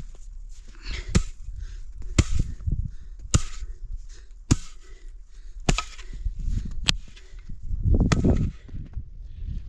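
Seven sharp chopping strikes, evenly spaced a little over a second apart, each followed by a dull thud.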